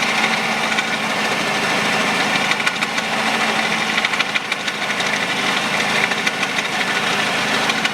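Peugeot 408 1.6 petrol engine running with a steady, rapid knocking from the accessory drive belt area. The owner thinks it most likely comes from the stretched, cracked drive belt, which the worn tensioner can no longer keep tight.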